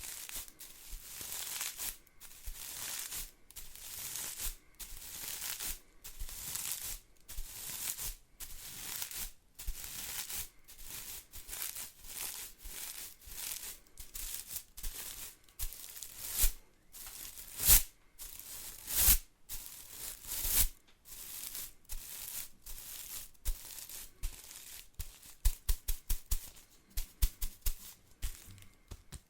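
Bristles of a household broom rustling and scratching in repeated brushing strokes, mostly slow sweeps of about a second, with quick short flicks at the start and near the end and a few louder, sharper swipes midway.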